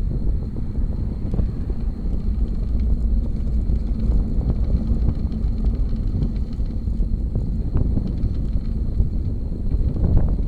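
Steady wind rumble on the microphone with road noise from a bicycle riding along.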